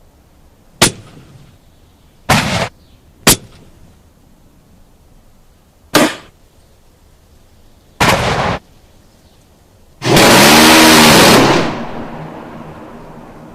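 A series of separate gunshot sound effects. Single sharp shots come about a second in, at about three seconds and at about six seconds. Short half-second bursts come at about two seconds and eight seconds. The loudest is a continuous blast about a second and a half long that begins near ten seconds and fades out slowly.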